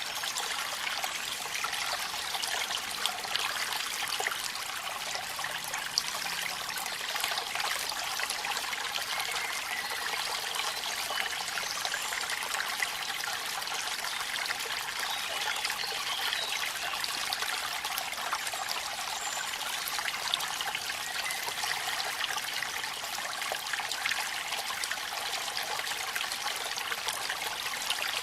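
Waterfall and rain: water running steadily, a constant splashing hiss with many small drop ticks scattered through it.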